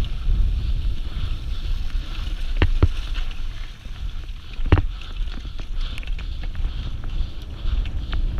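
Wind rushing over the microphone of a downhill mountain bike at speed, with a steady low rumble. Sharp knocks from the bike come through a few times: two close together about a third of the way in, and one just past halfway.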